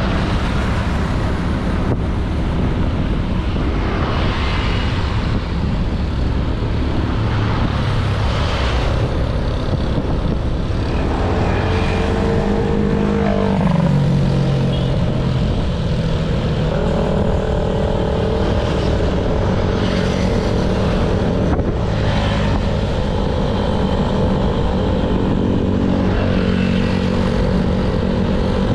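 Honda Beat 110cc single-cylinder scooter engine running on the move, with heavy wind and road noise. The engine note drops and picks up again about halfway through.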